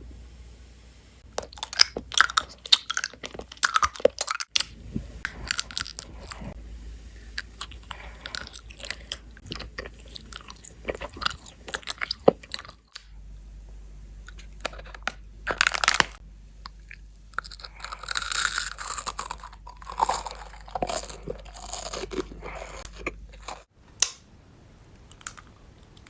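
Close-up crunching and chewing of chocolate and candy: a run of crisp bites and chews, in a few separate takes that cut into one another.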